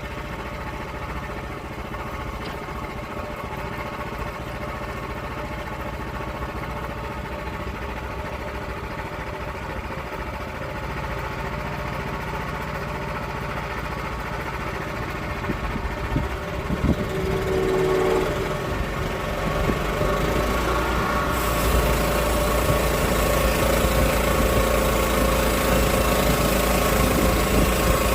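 Gas engine of a log-milling rig running steadily. About 17 seconds in it grows louder, and from about 21 seconds a harsher, brighter noise joins in.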